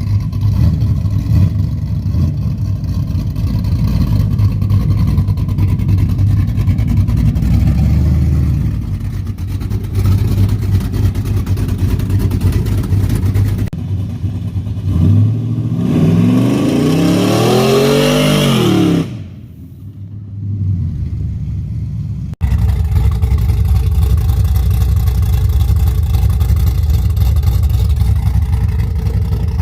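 Exhaust of a cammed LQ4 6.0 L V8 in a pickup, 2.5-inch stainless pipes into a Black Widow Angry Housewife muffler dumped under the bed, idling with a rough, uneven rumble. About sixteen seconds in the engine is revped once, its pitch rising and then falling back, before it settles to idle again.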